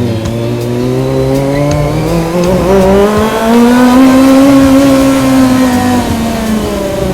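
Kawasaki ZX25R's 250 cc inline-four engine pulling under throttle, its pitch climbing steadily for a few seconds, holding at its highest and loudest in the middle, then dropping away near the end as the throttle eases.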